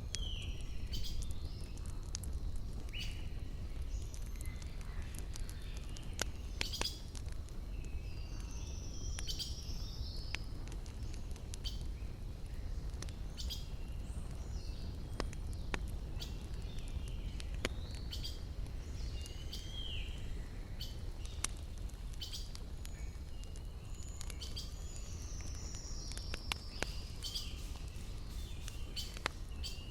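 Wood fire crackling with scattered sharp pops over a steady low rumble, while small birds chirp and sing short, sweeping calls throughout.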